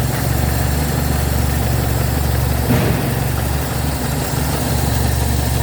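Ford Escort RS Turbo's turbocharged 1.6-litre four-cylinder engine idling steadily, heard with the bonnet open.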